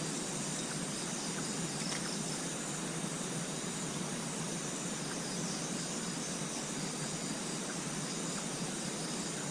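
Steady outdoor night ambience: an even hiss with a high insect chorus shrilling over it.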